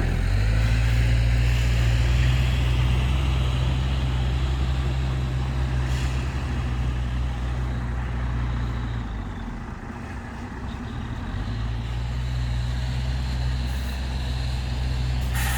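Heavy diesel engine running steadily. It eases off about nine seconds in and picks up again a couple of seconds later.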